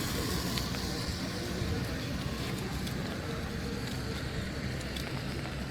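City street traffic: a steady hum of vehicles going by, with voices in the background.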